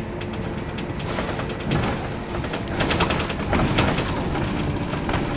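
Scania K230UB bus running, its engine note steady under a dense clatter of rattles and clicks from the worn bus's body and fittings. It grows louder about three seconds in.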